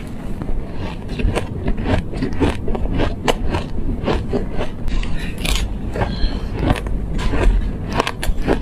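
Close-miked crunching of shaved ice bitten and chewed by mouth: rapid, irregular crisp crunches several times a second.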